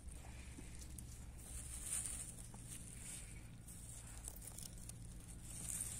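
Faint rustling and tearing of wild greens being picked by hand, a little louder about two and three seconds in.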